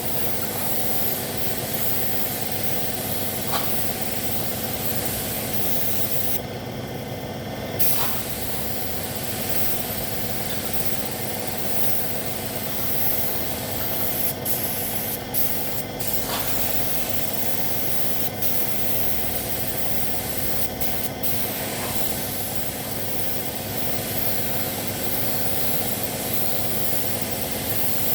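Compressed-air paint spray gun hissing steadily while spraying paint, with a brief stop of about a second some six and a half seconds in. A steady machine hum runs underneath.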